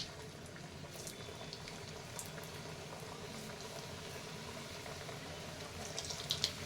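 Steady bubbling of something cooking on the stove, with a few light clicks about six seconds in.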